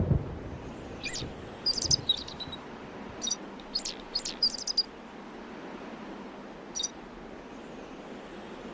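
Birds chirping: a string of short, high calls in the first few seconds and one more about seven seconds in, over a steady faint hiss of outdoor ambience, with a low thud at the very start.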